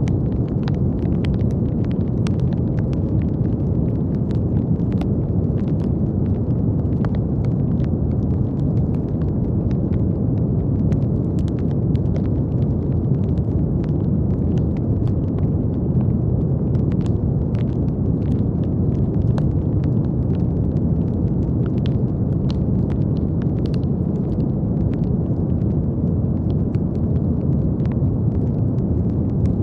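Brown noise: a steady, deep, even rush with most of its weight in the low end. Faint scattered clicks and crackles run through it.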